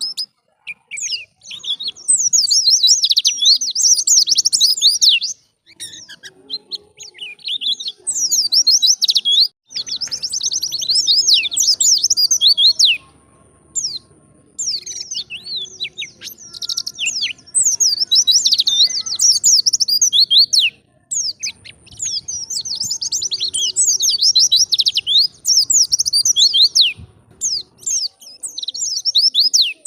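White-eye (pleci) singing a rapid, high twittering song in long phrases of several seconds, broken by short pauses.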